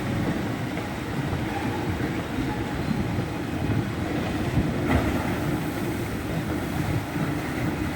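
Log flume ride running: a steady rumble of rushing water and ride machinery.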